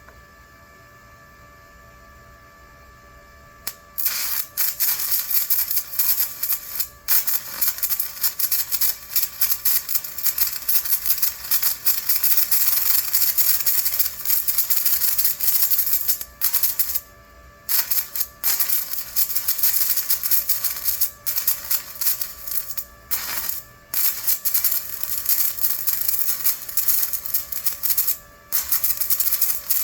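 Stick welding arc crackling and sputtering as a rod burns onto the weld, striking about four seconds in after a low steady hum, with a few brief breaks.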